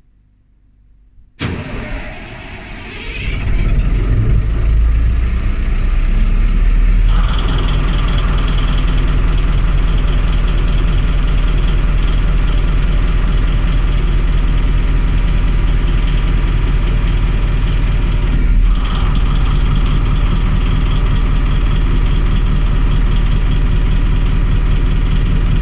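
MTU V8 diesel engine of a Voith Gravita locomotive cold-started with its coolant preheated to 50°C. The starter kicks in suddenly about a second and a half in, the engine catches and builds up over the next couple of seconds, then settles into a steady idle, with a shift in tone around seven seconds in.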